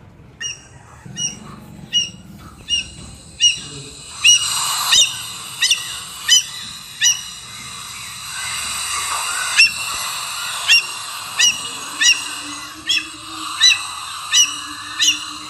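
Indian grey hornbills calling: a long run of short, sharp, high-pitched notes, roughly one every 0.7 seconds, over a steady background haze of other birdsong.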